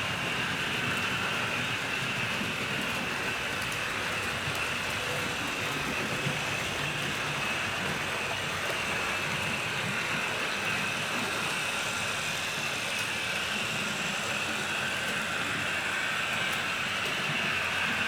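HO scale model train running steadily on the layout's track, with a dense, rattly rumble of wheels on rail and a steady whine from the motor. It gets a little louder near the end.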